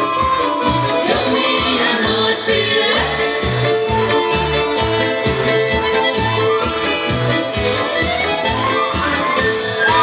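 Live folk ensemble music with a steady, regular low beat, held tones and tambourine-like jingles, building to its closing notes right at the end.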